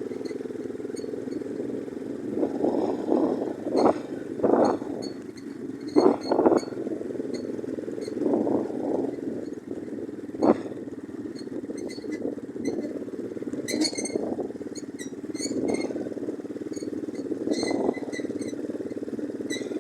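Orion-100 moped's engine running under load, the sound surging repeatedly as the throttle opens. There is a sharp knock about ten seconds in and scattered rattling ticks throughout.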